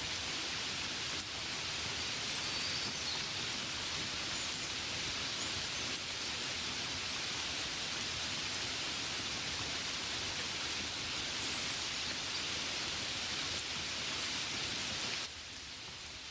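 Steady gentle rain pattering on a window, a dense even hiss. About a second before the end it suddenly gets quieter and duller.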